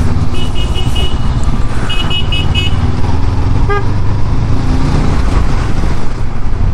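Steady low rumble of a motorcycle engine in slow traffic, with vehicle horns around it. There are two quick runs of four high-pitched beeps in the first three seconds, and a single short honk about four seconds in.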